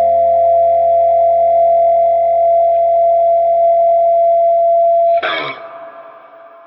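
Overdriven electric guitar chord through the Olinthus Cicada overdrive pedal, held and ringing steadily. About five seconds in, it is cut off with a brief scratchy burst as the strings are muted, then dies away.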